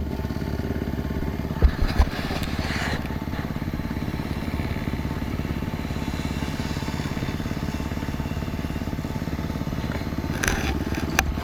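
Off-road motorcycle engine running steadily, with two sharp knocks about two seconds in and a brief clatter near the end.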